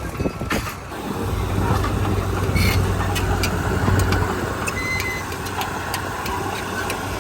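Heavy diesel machinery engine running steadily with a low hum that settles in about a second in, with scattered light clicks over it.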